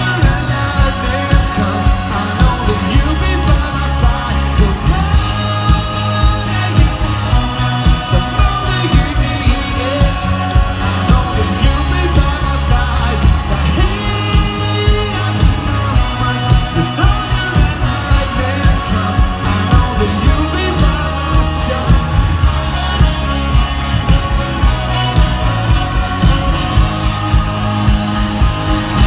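Live rock band playing a song with lead vocals over a steady, driving drum beat of about two hits a second.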